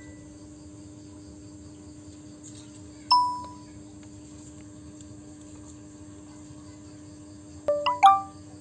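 Chime-like ringing tones over a steady low hum: one clear ping about three seconds in, then a quick run of three or four pings at different pitches near the end, each dying away.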